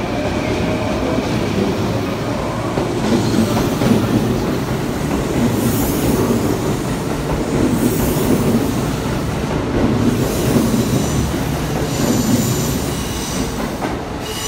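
Kintetsu electric trains rolling over the station's pointwork: a steady rumble of wheels clattering over rail joints and points. Thin high wheel squeals come in during the last few seconds.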